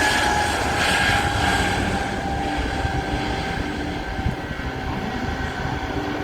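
Airbus A320 jet engines whining over a rumble, the tones falling slowly in pitch as the sound gradually fades.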